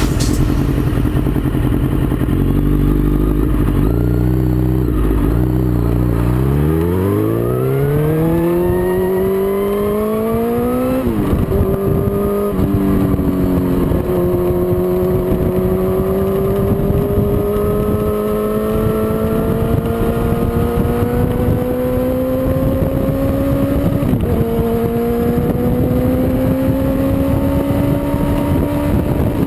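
Motorcycle engine heard from an onboard camera. It idles, then pulls away with the revs rising steeply, drops at three quick gear changes, and climbs slowly through a long pull, with one more gear change late on.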